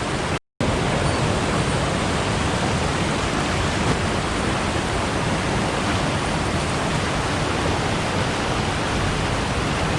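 Steady rushing of a mountain stream's water, an even hiss and roar, which cuts out completely for an instant about half a second in.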